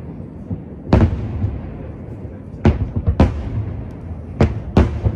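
Aerial firework shells bursting over a lake: about half a dozen sharp booms at uneven intervals, with a low rumble lingering between them.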